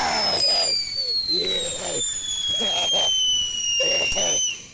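Piccolo Pete whistle firework shrieking with one long, really loud high whistle that slowly falls in pitch over about four and a half seconds, over a hiss, then cuts off suddenly.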